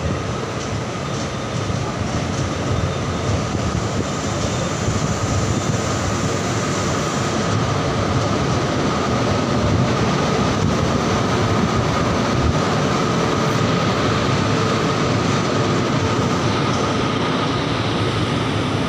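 Express train running out of the station, heard from aboard: a steady rumble of wheels on rail that slowly grows louder as it gathers speed, with a faint high whine held throughout.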